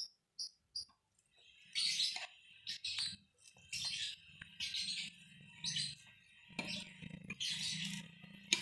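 Small birds chirping in short, high-pitched bursts, about one a second.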